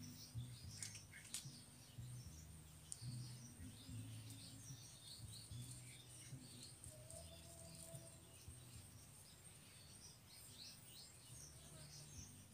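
Faint bird chirping: many short, high chirps, often in quick runs, scattered throughout. A steady high whine and a low rumble sit underneath.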